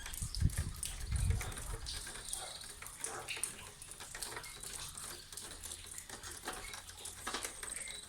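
Light rain falling, an irregular patter of many small drops over a steady hiss, with a few low rumbles in the first second and a half.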